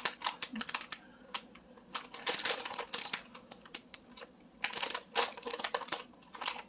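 Plastic candy bag being handled and opened, crinkling and crackling in several quick, clicky bursts.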